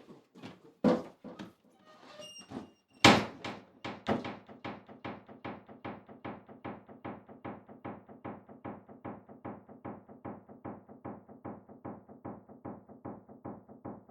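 A thump, then a loud bang about three seconds in, followed by a steady pulse of short repeated low notes, about three a second.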